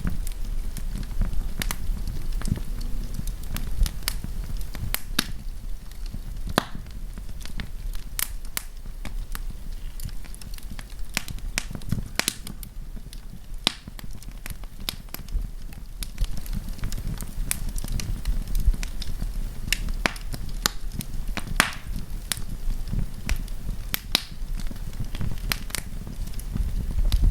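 Wood campfire crackling, with frequent sharp irregular pops and snaps of burning wood over a steady low rumble of the flames.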